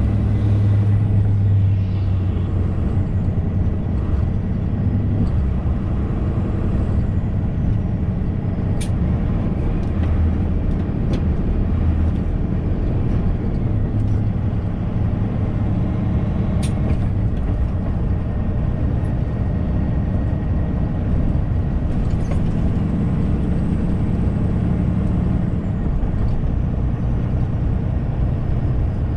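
Semi truck driving, heard from inside the cab: a steady low engine drone with road and tyre noise, and a couple of sharp clicks.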